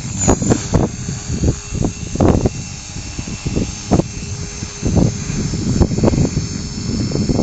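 Align T-Rex 450 Pro electric RC helicopter flying, its motor and rotor giving a steady high whine, with irregular low gusty buffeting on the microphone.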